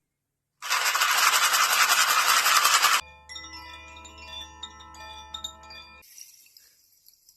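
A sequence of sound-healing instruments: after a brief silence, a loud dense shaking noise for about two and a half seconds, then chimes ringing with many overlapping tones for about three seconds, ending in a faint high shimmer.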